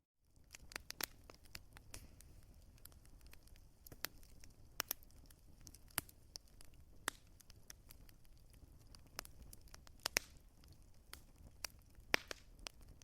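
Wood fire crackling, with irregular sharp pops over a soft low rumble. It briefly drops to silence at the very start.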